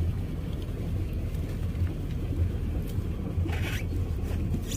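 A steady low motor hum, with a brief hiss about three and a half seconds in.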